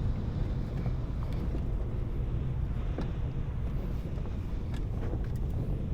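A car driving on a rough road under construction: a steady low rumble of engine and tyres, with a few brief knocks from the uneven surface.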